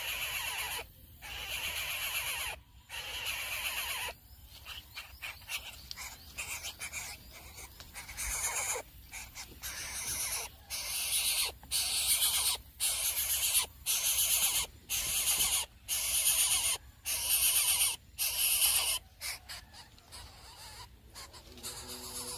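Coucal nestlings' hissing begging calls, repeated roughly once a second, fainter and more irregular for a few seconds before settling back into a steady rhythm.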